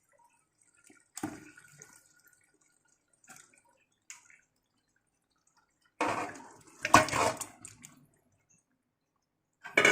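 Marinated chicken being tipped into the fried masala in the pan: wet splats and knocks, one about a second in and a busier run about six seconds in, with quiet gaps between.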